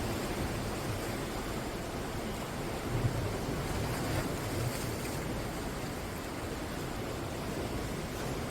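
Sea waves breaking and washing onto the shore in a steady rush of surf, swelling a little about three to five seconds in.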